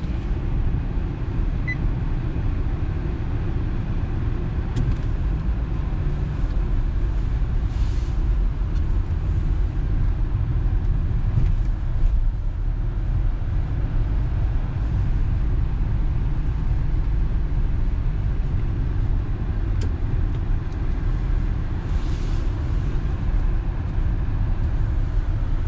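Steady engine and road rumble inside a car that is being driven.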